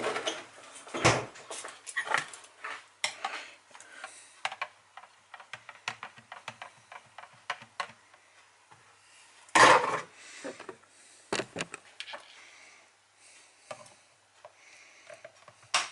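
Kitchenware being handled: scattered clinks, clatters and knocks of dishes and cutlery, with louder knocks about a second in and again near ten seconds.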